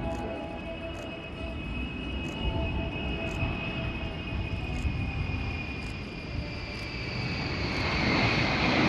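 Jet aircraft engine whine over a low rumble. Its pitch slides slowly down, and it grows louder over the last couple of seconds.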